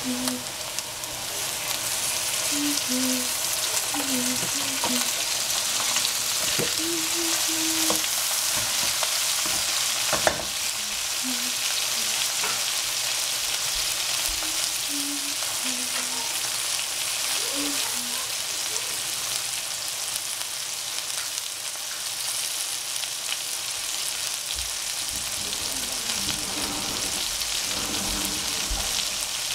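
Shredded cabbage, peppers and pork frying in hot oil in a frying pan: a steady sizzling hiss, with the food being stirred and turned with a wooden spoon. One sharp knock about ten seconds in.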